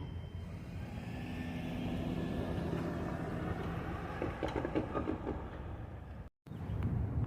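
Amtrak passenger train rolling past a grade crossing: a steady low rumble with a run of quick wheel clicks over the rail joints partway through. The sound cuts out completely for a moment near the end.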